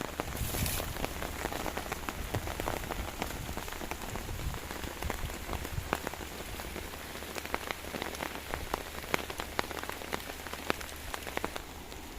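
Heavy rain falling steadily, with many sharp individual drops striking a surface close by. A brief hiss comes about half a second in.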